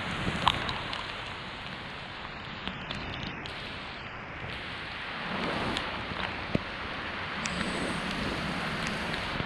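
Heavy rain falling steadily, with a few sharp ticks of single drops.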